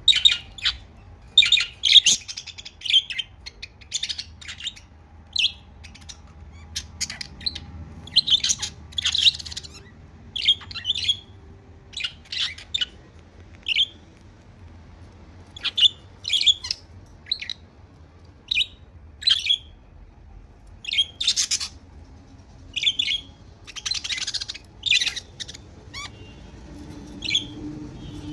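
Pet budgerigars chirping: many short, sharp chirps and squawks come one after another at irregular intervals.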